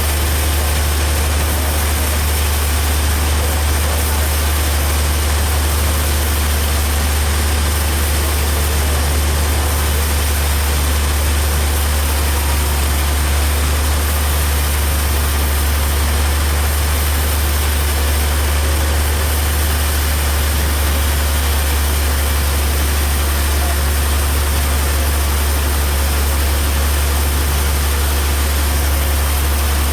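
A heavy engine running steadily with a deep, even drone and no change in speed.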